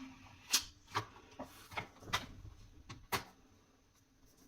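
Light plastic clicks and taps from a screen protector being pressed down in its installation frame on a smartphone: about seven short clicks over three seconds, the loudest about half a second in and about three seconds in.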